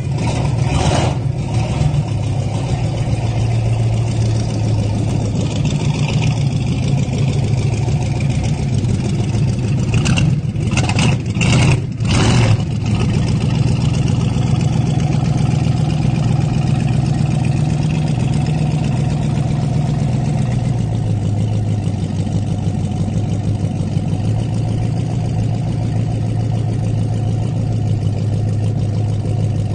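Ford Model A's four-cylinder engine idling steadily, with a few short bursts of noise about a second in and again around ten to twelve seconds in. The idle drops a little lower about two-thirds of the way through.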